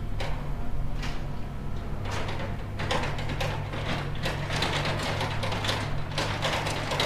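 An engine running steadily under repeated clattering knocks and scrapes, thickest from about two seconds in.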